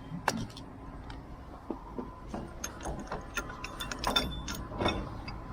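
Irregular metallic clinks and knocks, some ringing briefly, over a steady low engine rumble.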